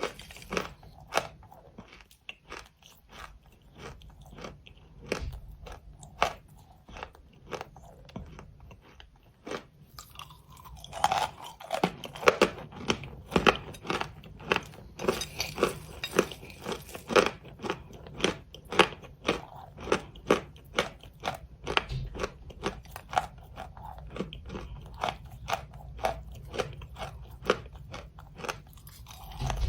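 Close-miked eating ASMR: someone biting and chewing hard, brittle chalk, a run of sharp crunches. The crunches are sparse and softer at first, then from about a third of the way in they come louder and faster, around two a second.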